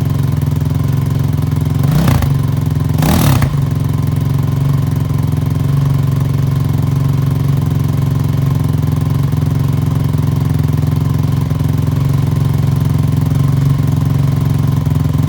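Honda TRX450R quad's single-cylinder four-stroke engine idling steadily just after its first start following a complete rebuild, with two quick throttle blips about two and three seconds in.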